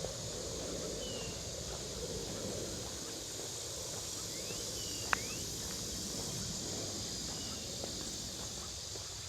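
Footsteps on a trail under a steady high hiss, with a few short bird chirps scattered through. One sharp click comes about halfway through.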